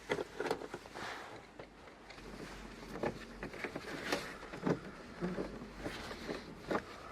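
Car parts being handled and fitted back together: irregular clicks and knocks, a dozen or so scattered sharp taps, with a faint low hum beneath.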